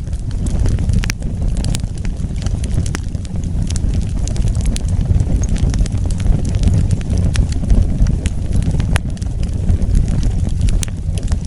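Wood fire burning: a steady low rumble of flames with frequent sharp crackles and pops of the burning wood, scattered irregularly.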